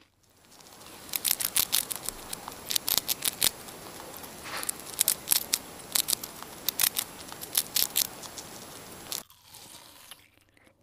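Grey squirrel gnawing and chewing food: a quick, irregular series of sharp crunching clicks that stops shortly before the end.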